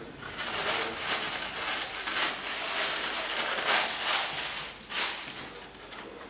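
Loud, irregular rustling and crinkling for about six seconds, dipping briefly near the five-second mark and fading near the end.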